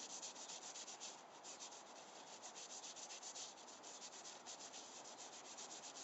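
Faint, fast scrubbing strokes on a dirty plastic train button, several a second, as oven cleaner is worked into it to lift the ground-in black grime.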